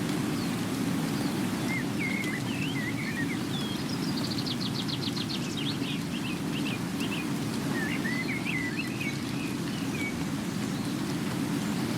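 Steady rain with small birds chirping over it. About four seconds in, one bird gives a fast trill of around a dozen rapid notes, falling slightly in pitch, and scattered chirps come again a few seconds later.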